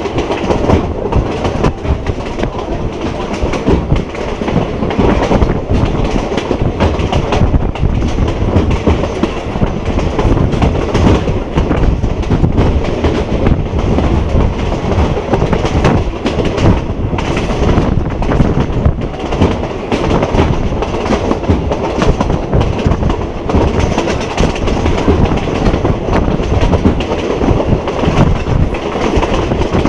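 Passenger train running at speed, heard from inside a carriage through an open window: a steady rumble and rush of air, with the wheels clacking over rail joints.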